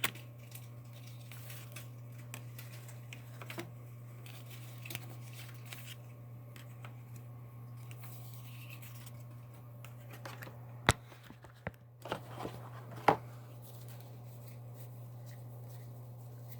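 Light handling noises, small rustles and clicks, over a steady low hum, with two sharper clicks about 11 and 13 seconds in.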